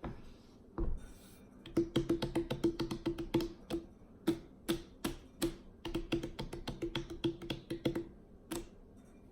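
Quick, irregular tapping: sharp clicks that each carry the same hollow ring, in a busy run lasting about six seconds, after a single thud.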